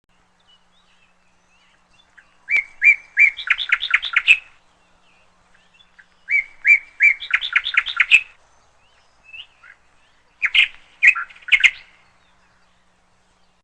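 Canary chirping in three short bursts of rapid repeated notes, each burst quickening and climbing toward its end.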